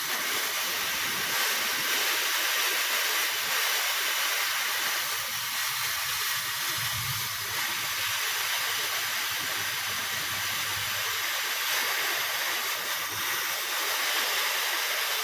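Dyson hair dryer blowing with a steady rushing hiss at its high fan speed, running without cutting out: the repaired dryer no longer shuts off at the third fan speed.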